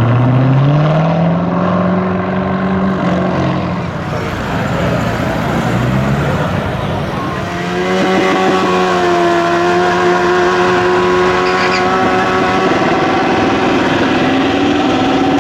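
A car engine revving hard: its pitch climbs over the first couple of seconds, then after a rougher patch it is held at steady high revs for about five seconds before easing off near the end.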